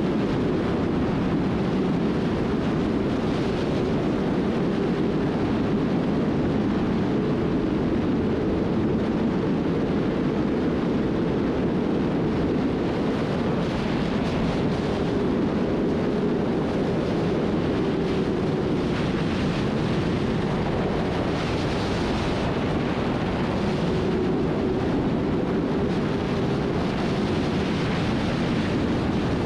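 Sports motorcycle riding steadily at high speed on a highway: a constant engine note under heavy wind rush, with no change in pace.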